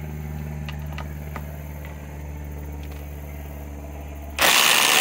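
A steady low hum with a few light clicks of handling, then near the end a Milwaukee M18 cordless impact driver starts hammering loudly at full speed on a fastener.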